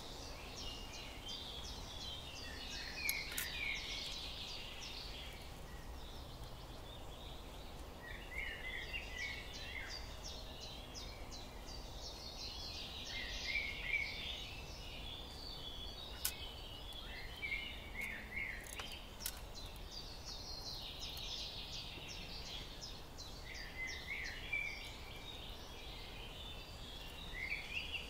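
Small birds twittering and chirping in repeated bursts of rapid trills every few seconds, over a faint steady low hum.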